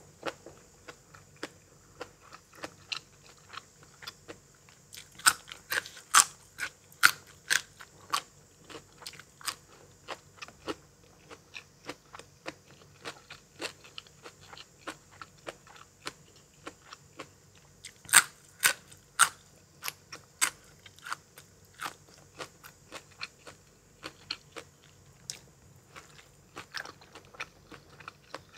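Close-miked crunching and chewing: a person biting into and chewing crisp food with irregular sharp crunches. There are clusters of louder bites a few seconds in and again about two-thirds of the way through.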